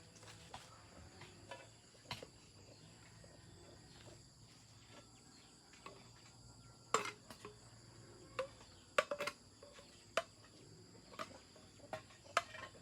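Steady high insect chirring throughout, with scattered sharp taps and knocks over it: a loud one about seven seconds in and a quick cluster of three around nine seconds.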